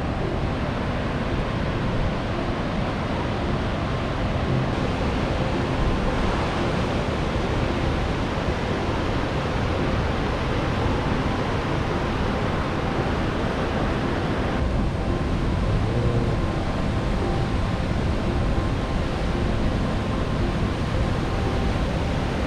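Honda S660 driving along at a steady speed: constant road and wind noise, with a faint engine note underneath.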